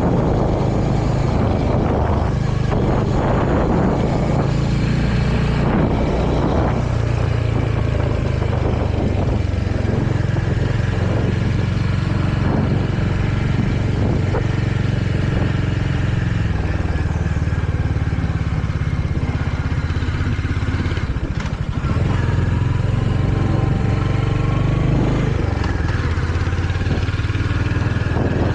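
Royal Enfield Hunter 350's single-cylinder engine running steadily on the move, its pitch shifting several times as the speed changes, with a brief lull in the engine about three-quarters of the way through.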